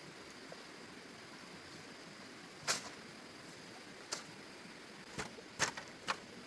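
Several sharp knocks or impacts at uneven intervals, the loudest two a little under halfway in and near the end, over a faint steady hiss.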